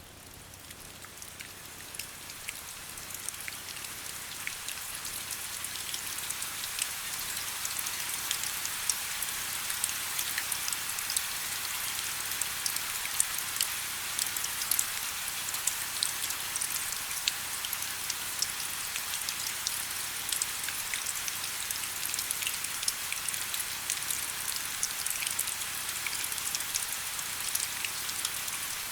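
Steady autumn rain, a dense hiss full of many small crisp drop ticks, fading up over the first several seconds and then holding even.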